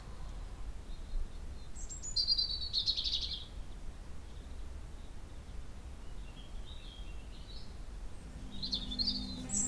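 Birds chirping over a steady low rumble of outdoor ambience. The loudest call, a rapid trill, comes about two seconds in, with softer chirps later.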